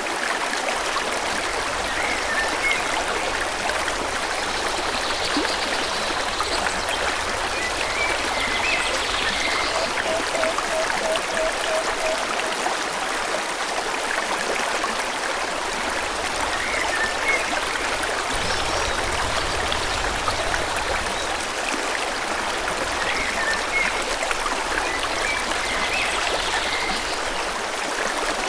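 Forest stream flowing steadily, with brief bird chirps now and then and a short trill of quick repeated notes about ten seconds in.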